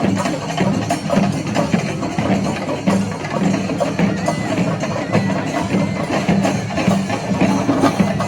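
Kerala temple percussion ensemble playing loud, rapid, unbroken drumming: sharp stick strokes on drums over a steady beat, with metallic cymbal clashes.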